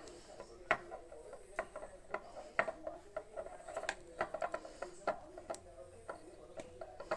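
Handling noise: irregular, scattered clicks and taps of small objects being handled close to the microphone, about one or two a second.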